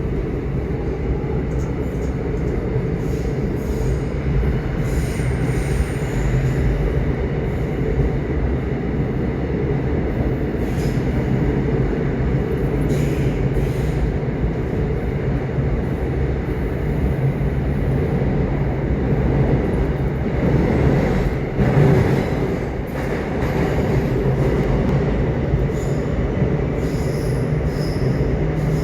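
Subway train running: a steady low rumble of wheels and motors, with a thin high whine and scattered faint clicks, swelling briefly about three quarters of the way through.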